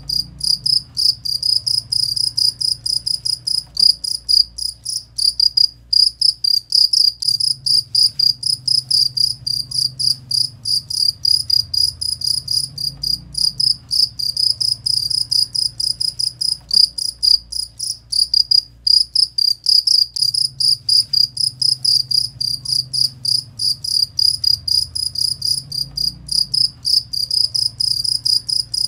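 Cricket chirping: a fast, even run of short high chirps, several a second, pausing briefly twice.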